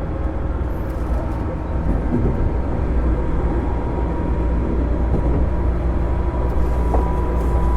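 Onboard running sound of a JR 205 series electric train car with MT61 external-fan traction motors: a steady, loud rumble of the running gear on the rails, with a thin steady whine running through it.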